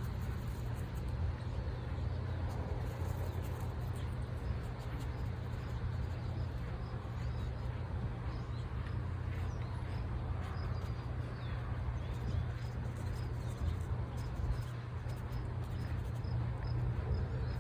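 Wind buffeting an iPhone's microphone, a steady low rumble, with faint bird chirps over it.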